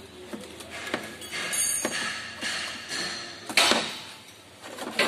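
Sheet-metal underbody heat shield on a 2008 Caprice being handled and pushed into place: rattling, scraping and metallic clinks, with a sharp knock about three and a half seconds in and another near the end.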